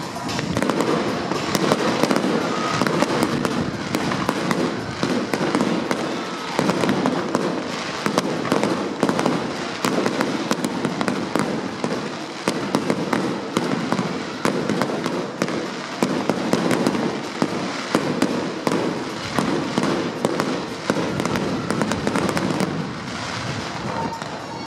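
Fireworks display: aerial shells bursting in a dense, continuous barrage of rapid bangs.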